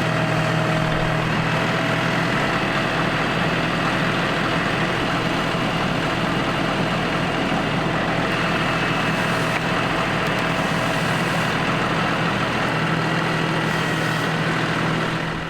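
An engine running steadily at an even speed, with a constant hum and no change in pitch. It cuts off abruptly at the very end.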